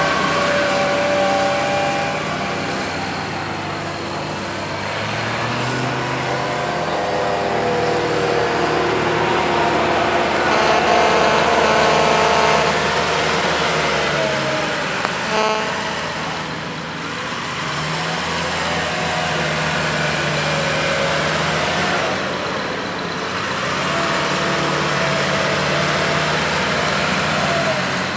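Tractor diesel engine running and revving, its pitch rising and falling several times, with a short click about halfway through.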